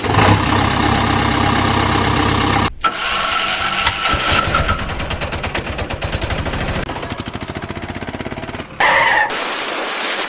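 A motor engine starting and then running with an even chugging rhythm, with a short, different burst of sound near the end.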